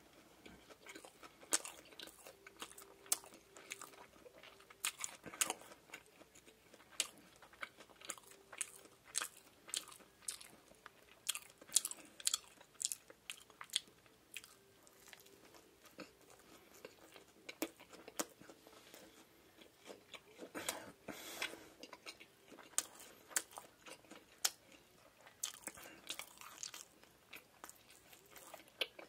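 Close-miked chewing of a Lotteria fried shrimp burger: crisp crunches of the breaded shrimp patty and bun, with many sharp crunches coming irregularly throughout.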